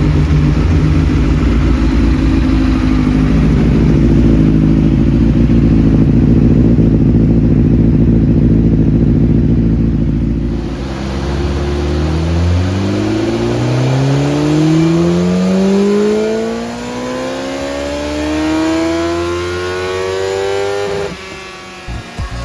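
A 2005 Honda CBR1000RR's inline-four engine runs hard on a chassis dynamometer during a power run, its exhaust going through an Akrapovič slip-on silencer. It is loudest in the first half, then the note climbs steadily in pitch before dropping away near the end.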